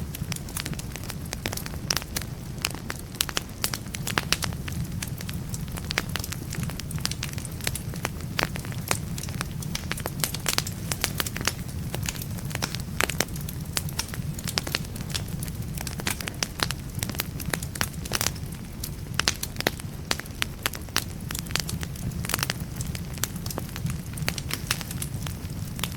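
Wood fire burning in a fireplace: a steady low rumble of flames with frequent sharp crackles and pops of burning logs throughout.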